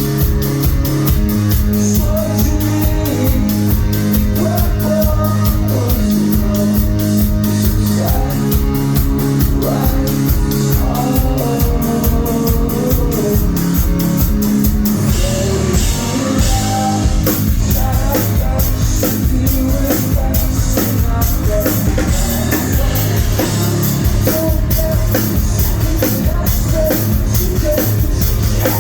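Live rock band playing loud through a phone's microphone: a steady drum-kit beat, electric guitars and singing.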